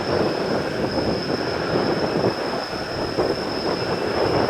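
Jet airliner's engines running steadily, a low rumble with a thin, steady high whine above it.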